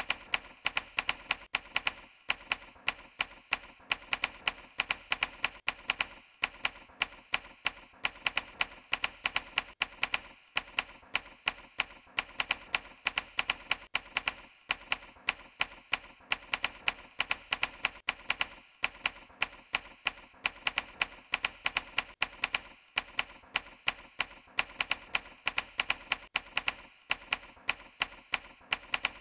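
Rapid typing, keys clacking in quick, uneven strokes, pausing briefly about every four seconds.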